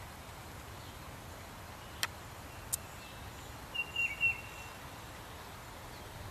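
Outdoor ambience: a steady low background noise, two sharp clicks less than a second apart about a third of the way in, then a short bird call of a few clear chirps a little after the middle.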